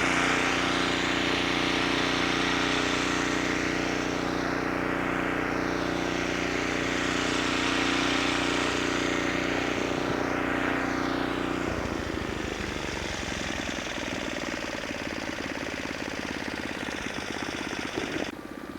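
An engine running steadily under a wide rushing hiss that sweeps slowly in tone. About twelve seconds in, the steady hum gives way to a fast, rough rhythm and the sound grows a little quieter.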